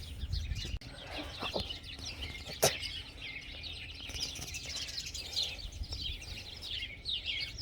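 Many small birds chirping and singing together in a continuous chorus, with one sharp click about two and a half seconds in.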